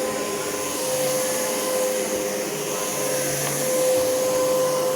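Miele bagged upright vacuum cleaner running steadily, with an even motor whine, as it is pushed over low-pile carpet.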